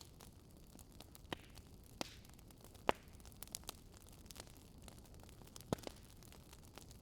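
Wood fire crackling: scattered sharp pops and snaps at irregular intervals over a soft, steady hiss, the loudest pop about three seconds in.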